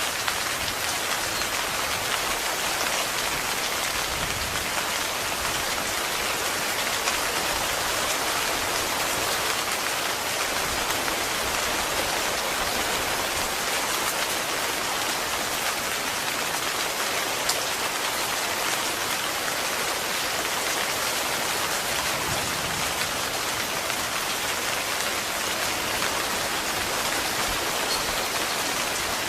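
Heavy rain falling steadily on a tent, with a couple of louder single drop ticks.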